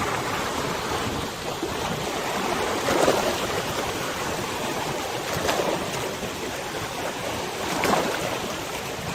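River waves lapping and splashing in a steady wash, with three louder wave splashes about two and a half seconds apart.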